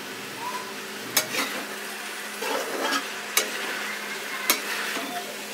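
Cluster beans and potatoes sizzling as they fry in a kadhai, stirred with a metal spatula that scrapes along the pan and clinks sharply against it three times.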